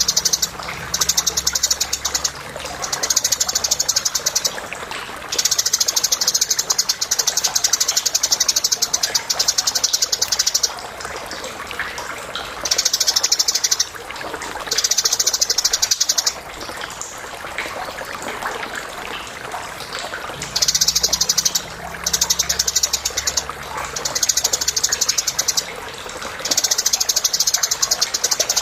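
Eurasian tree sparrows chirping and chattering: high, rapid pulsed bursts lasting one to five seconds each, with short pauses between, over scattered single chirps.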